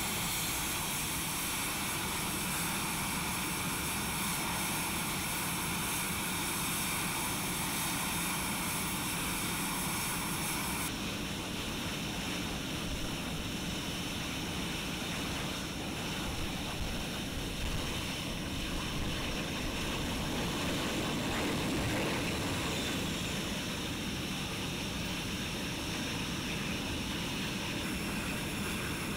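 Panavia Tornado GR4 jet engines running steadily, a continuous rushing noise with a high whine in it; the character of the sound changes abruptly about 11 seconds in and again near the end.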